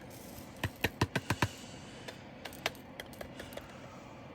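A quick run of about six sharp, light clicks, then a few scattered softer ticks. These are small plastic pieces being handled: diamond painting drills and their containers being sorted and packed away.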